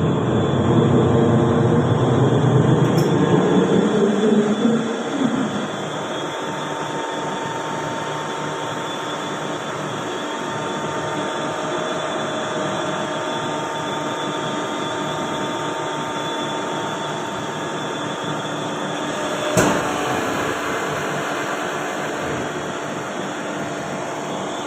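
Ship's main diesel engine running, a steady loud machinery noise with faint steady tones. A low drone rises a little in pitch and fades out over the first five seconds, and a single sharp knock comes about twenty seconds in.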